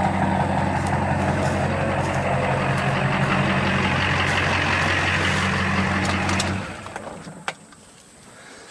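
Truck engine idling steadily, then switched off about six and a half seconds in, the running sound stopping abruptly. A few light clicks follow.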